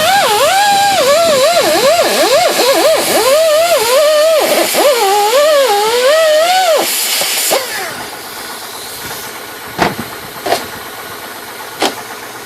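Handheld electric power tool running hard, its motor pitch dipping and recovering again and again as it is pressed into the work; it stops about seven and a half seconds in, followed by a few sharp knocks.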